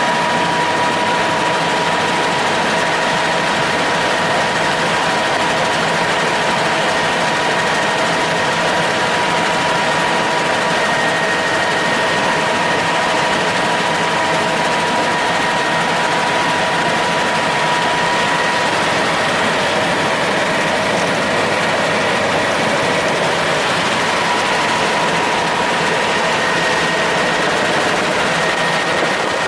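Helicopter in flight: steady, loud engine and rotor noise with a constant high whine running through it.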